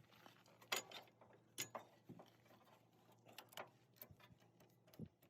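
Faint scattered clicks and light knocks of hands working with parts, over a low steady hum.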